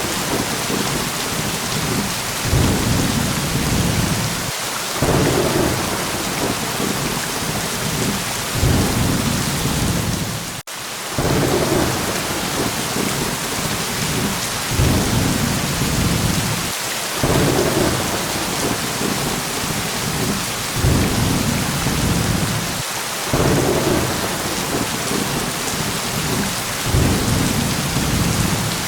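Steady heavy rain hissing, with low thunder rumbling in repeated swells every couple of seconds. The sound drops out for a moment about ten seconds in.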